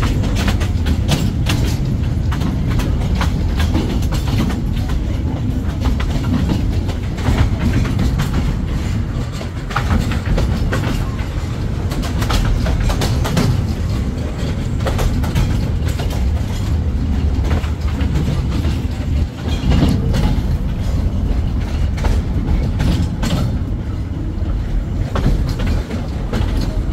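Mocanita narrow-gauge forestry train rolling along the track: a steady heavy rumble of the carriages, with irregular knocks and clatter from the wheels running over the rails.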